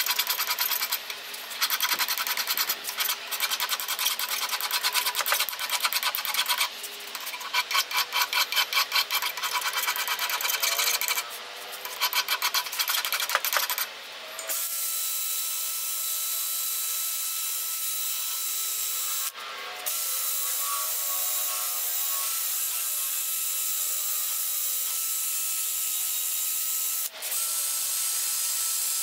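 A metal file scraping a rusty steel hatchet head in rapid, even strokes. About halfway through it gives way to the steady hiss of a wire brush spinning on an electric drill against the steel.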